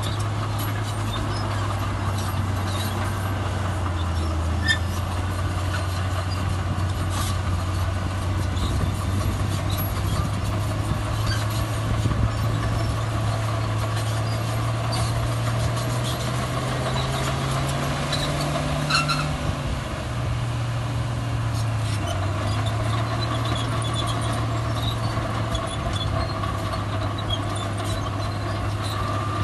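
Heavy diesel engine of earthmoving machinery running steadily under work. About two-thirds of the way through it rises in pitch for a few seconds, then drops back, with scattered light clicks over the drone.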